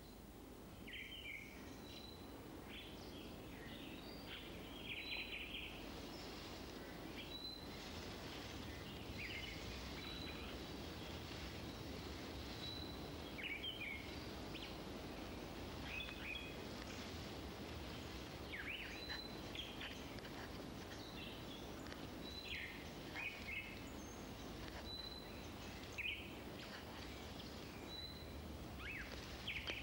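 Birds calling: a short high note repeated about every two seconds among scattered quick, falling chirps, over a steady hiss.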